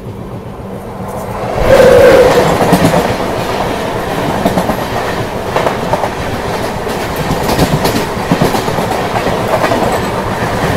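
Himgiri Express passenger train running, its wheels clattering over the rail joints under a steady rumble. The noise swells sharply about a second and a half in and stays loud.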